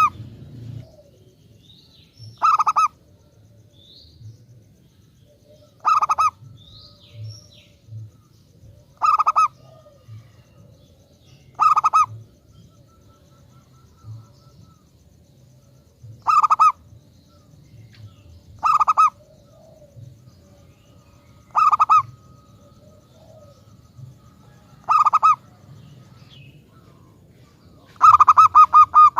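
Zebra dove (perkutut) singing: a short cooing phrase repeated about every three seconds, nine times, the last one longer.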